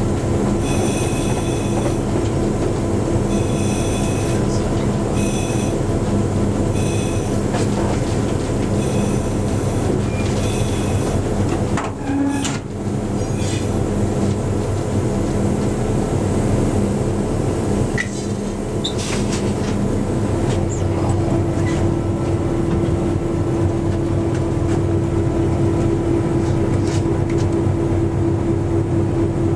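A train in motion: a steady low running drone with short high-pitched wheel squeals, repeating through the first ten seconds. About twenty seconds in, the hum settles on a higher steady tone.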